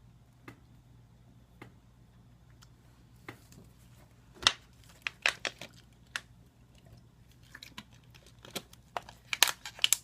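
Scattered sharp taps and clicks from handling the freshly reassembled iPad 2 while testing it, bunched into two quick clusters, the loudest tap about four and a half seconds in. A faint steady low hum runs underneath.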